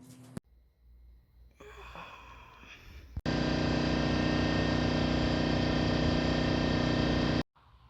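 A loud, steady machine hum starts abruptly about three seconds in, runs evenly for about four seconds, then cuts off suddenly. It follows a few seconds of fainter, scattered sounds.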